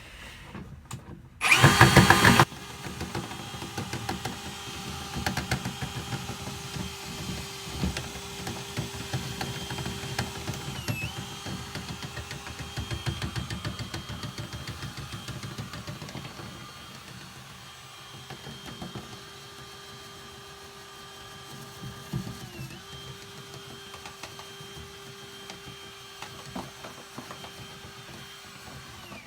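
Small electric power-tool motor, very loud for about a second near the start and then running steadily, with irregular rattling and knocking beneath it; its pitch dips briefly twice as it is loaded, while cleaning lint from the back of a clothes dryer.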